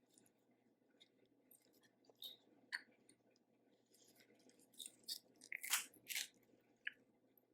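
Faint, close-miked chewing and biting of seafood-boil food, with scattered crisp crunches and clicks that grow into a louder cluster about five to six seconds in.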